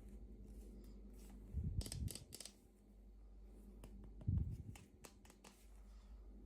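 Hands unboxing small plastic toy packaging: scattered clicks and rustles, with two clusters of heavier knocks and crinkling, one about two seconds in and one about four seconds in.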